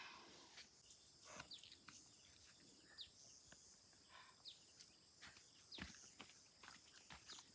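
Near silence outdoors: a faint, steady high-pitched insect drone, with scattered soft clicks and rustles.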